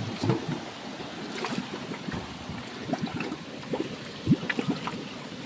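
Water trickling, with scattered short clicks and knocks and one sharper thump about four seconds in.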